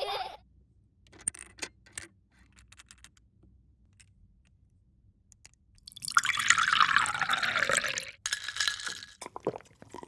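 A few light clicks and clinks, then liquid poured into a glass for about two seconds, followed by a few more clinks.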